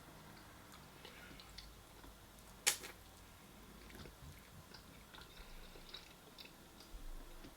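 A person chewing food with scattered small wet mouth clicks, and one sharper click about two and a half seconds in.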